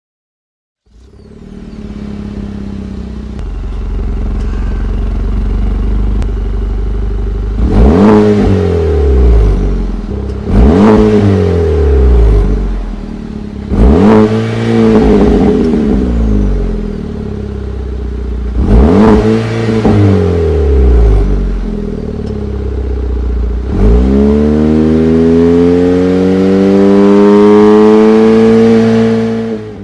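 Chevrolet Cruze's 1.4-litre turbocharged four-cylinder engine breathing through a GM Performance exhaust. It idles, then is blipped four times in quick revs that climb and fall back, then is revved and held high for several seconds before cutting off.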